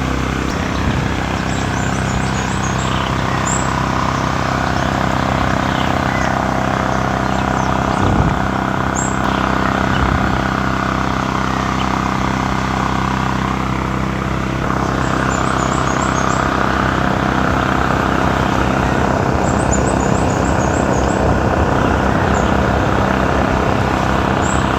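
Steady mechanical drone holding one unchanging pitch, with a few faint high chirps.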